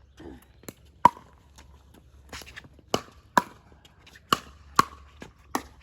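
Pickleball rally: paddles striking the hard plastic ball in a quick exchange, about six sharp pops spaced roughly half a second to two seconds apart, with a few fainter taps between them.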